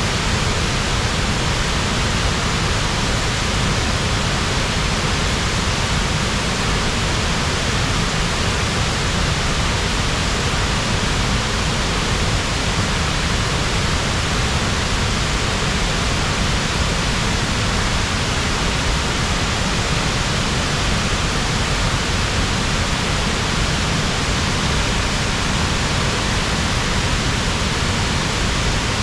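Upper Tahquamenon Falls: the steady rush of a large waterfall, an even wash of falling water that does not change.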